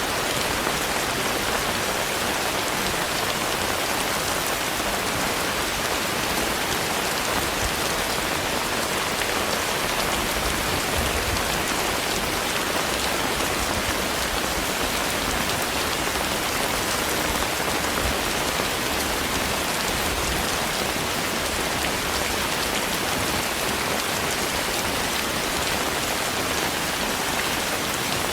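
Steady rain falling, an even hiss of many drops with no single strikes standing out.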